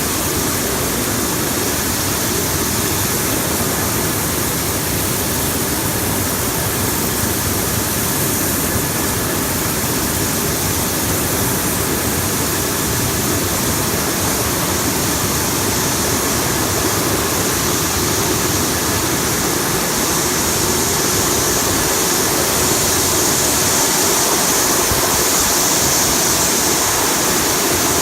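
Bubble-type produce washing machine running: water churning and splashing steadily in the tank as air is blown through it, with a machine hum underneath. It grows slightly louder in the second half.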